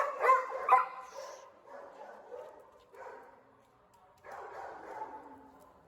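Dog barking: three loud barks in quick succession in the first second, then fainter barking that stops for a moment and picks up again.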